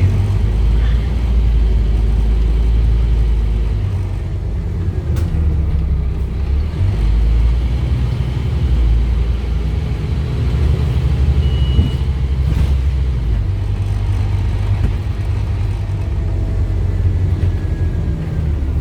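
Scania OmniCity double-decker bus under way, its Scania DC9 five-cylinder diesel running with a low note that shifts pitch several times as the bus pulls and eases off.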